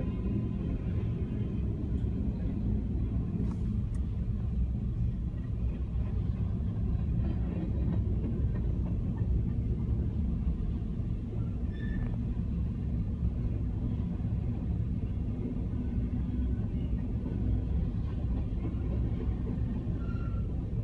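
Covered hopper cars of a freight train rolling past, a steady low rumble of wheels on rail.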